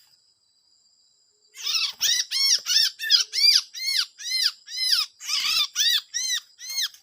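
A small songbird, freshly caught, giving loud harsh distress calls. They start about a second and a half in and come in a fast, even series of about three a second, each call rising and falling in pitch.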